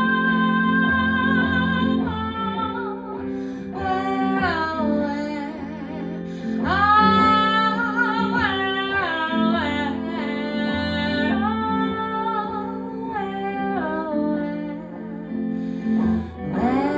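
Female voice singing an acoustic folk song with acoustic guitar accompaniment, with long held notes that slide between pitches.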